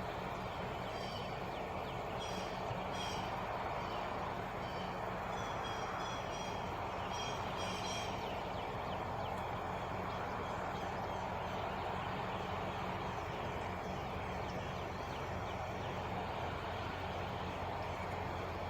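Truck engine idling steadily with a low hum, while birds call with short high chirps during the first half.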